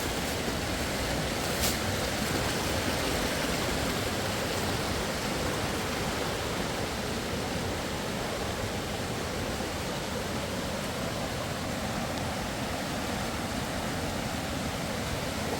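Steady rushing of a fast-flowing river, with one brief click under two seconds in.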